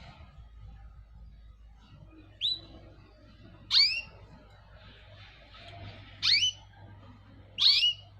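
A cage bird calling: four short, sharp chirps that sweep steeply down in pitch, spaced about one and a half to two and a half seconds apart, the first one fainter.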